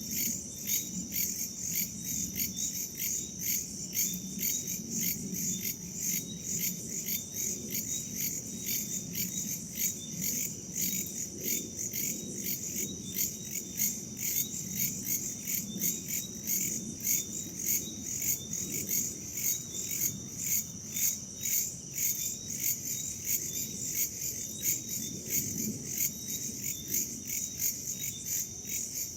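Chorus of crickets and other insects chirping in a fast, even pulsing rhythm over a steady high trill, with a low rumble underneath.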